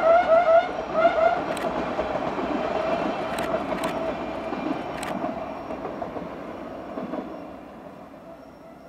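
Diesel multiple unit running across a stone arch viaduct. Its wheels give short rising squeals in the first second and a half, with a few sharp clicks over the rail joints. The running sound then fades steadily as the train moves away.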